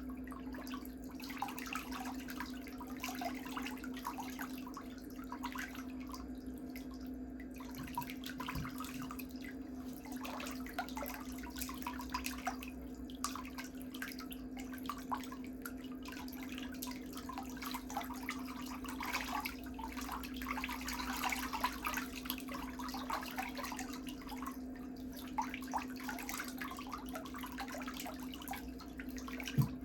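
Toenail work with pedicure tools: many small irregular scraping and clicking sounds over a steady low hum.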